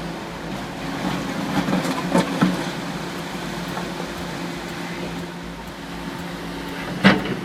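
Heavy machinery's diesel engine running steadily, with a few knocks around two seconds in and one sharp, loud knock near the end.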